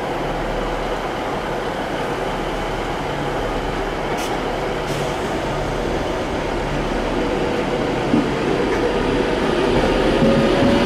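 A train running at a station, a steady rumble that grows a little louder toward the end, with a few faint clicks and a knock along the way.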